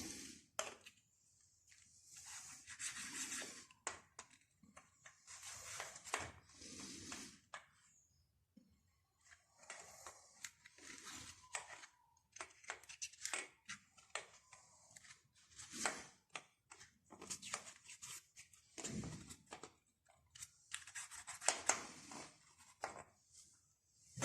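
Faint, irregular scraping and rubbing strokes with small clicks and knocks: hand work on the Pancar engine during the flange gasket change.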